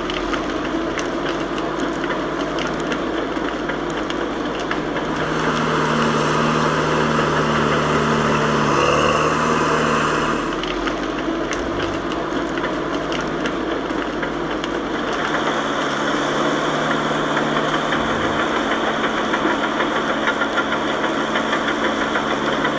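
Heavy diesel engine of logging machinery running steadily under load. It grows louder for a stretch about five seconds in and again from about fifteen seconds in.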